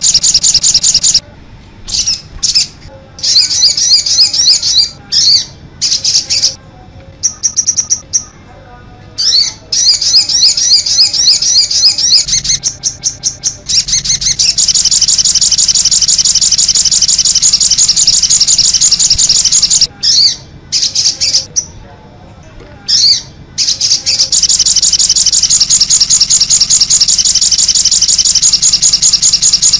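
Sogon bird singing: a high, very rapid chattering trill in long runs, broken by several short pauses.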